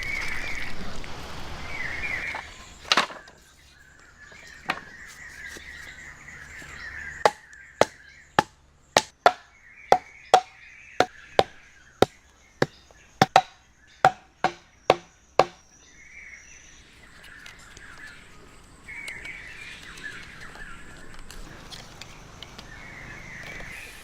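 A run of about sixteen sharp knocks, roughly two a second, each with a short ringing note, starting about seven seconds in and stopping a little after fifteen seconds.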